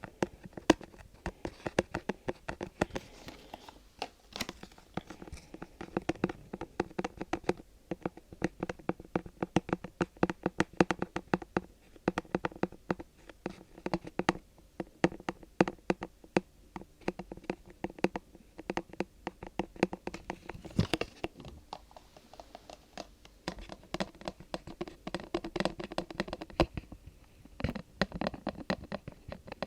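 Fingers tapping and scratching quickly on an object, many light taps a second, with a faint hollow ring under the taps.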